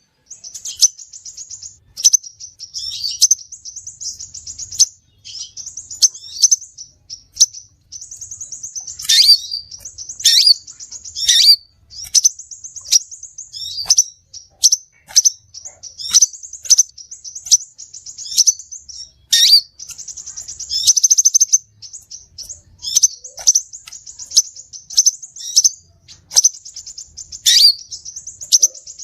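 Crimson sunbird (sepah raja) song: rapid, high-pitched trills and sharp chirps repeated over and over, many of them sweeping quickly downward.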